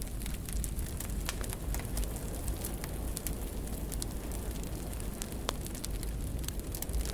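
Wood fire burning in a fireplace: a steady low rumble of flames with irregular sharp crackles and pops, one louder pop about five and a half seconds in.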